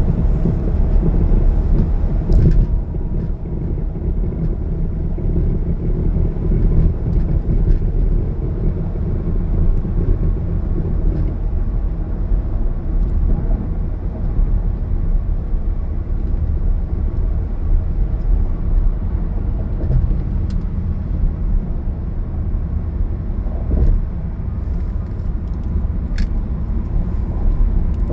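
A car driving along a highway: a steady low rumble of engine and tyre road noise, with a few faint ticks.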